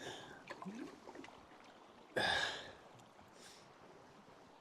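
A paddle dipping and pulling through calm water, with one short swish about two seconds in and a fainter one later, over quiet water lapping at the boat.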